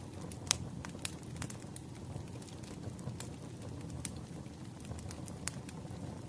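Wood fire crackling: irregular sharp pops and snaps over a low steady rumble, the loudest pop about half a second in.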